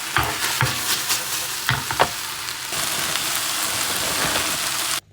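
Onion and capsicum sizzling in hot oil in a pan, with a utensil clicking and scraping against the pan several times in the first two seconds as they are stirred, then a steady sizzle that cuts off suddenly near the end.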